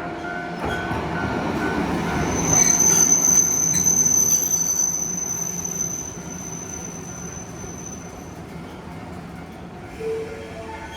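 Tram running on the rails with a high-pitched steady wheel squeal that comes in about two seconds in and dies away around eight seconds, leaving a fading rumble.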